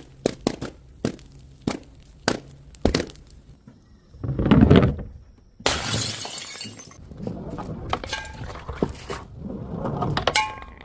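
Glass bottles breaking and shattering: several sharp cracks in the first few seconds, a loud crash about four and a half seconds in, then a long spell of shattering with glass shards clinking and ringing.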